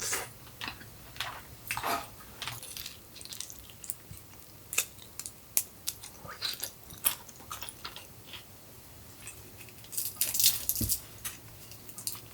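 Close-up chewing and biting of crispy-skinned roast chicken: irregular crunches and wet clicks, with a louder burst of crunching about ten seconds in.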